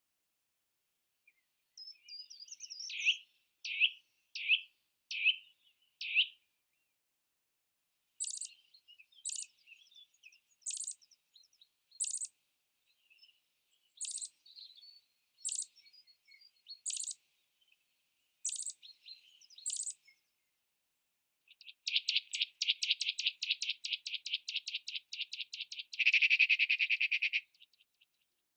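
Birds chirping and singing: a quick run of five notes, then a string of sharp, high single chirps about a second and a half apart, then a fast trill lasting several seconds near the end.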